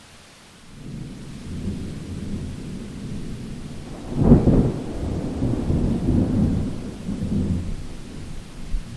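Thunder rolling over steady rain: a low rumble builds about a second in, peaks in a louder clap about halfway through, then rolls on and fades near the end.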